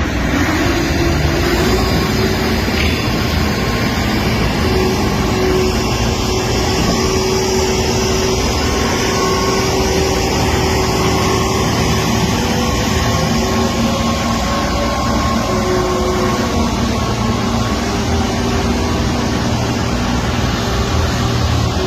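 Heavy engine machinery of cargo loading running steadily: a continuous low rumble with a few held whining tones above it.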